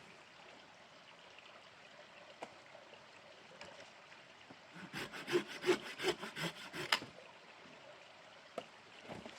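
Hand saw cutting wood: a quick run of about ten back-and-forth strokes in the middle, with a couple of single knocks before and after. Underneath is the faint steady rush of a mountain stream.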